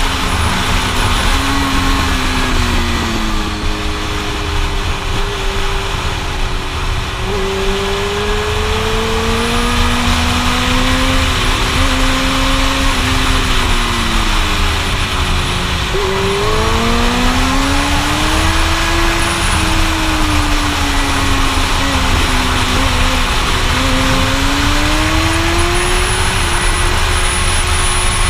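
Suzuki GSX-R1000 sport bike's inline-four engine at speed, its pitch climbing and falling over and over with the throttle through the bends, with a sharp dip and climb about halfway through. Heavy wind rush on the helmet camera's microphone runs under it throughout.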